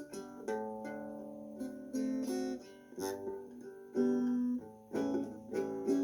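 Acoustic guitar playing strummed chords, struck about once a second and left to ring out between strokes.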